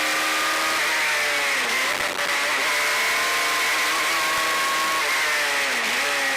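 Suzuki Hayabusa inline-four motorcycle engine in a single-seater racing car, running hard at steady high revs. Its note dips briefly and climbs back twice, about two seconds in and again near the end.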